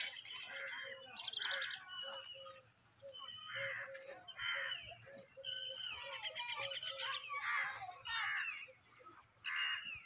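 Birds calling: a loud, harsh call repeated about once a second in short runs, with higher chirps between.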